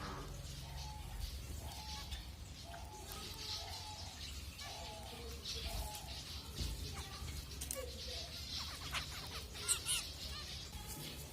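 Zebra finches calling: a run of short, nasal beeping calls repeated about twice a second, mixed with higher chirps. A few sharp clicks come near the end, over a steady low hum.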